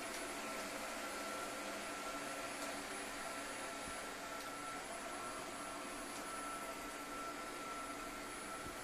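Midea M7 robot vacuum running steadily: an even rush of fan and brush noise with a thin, steady whine on top.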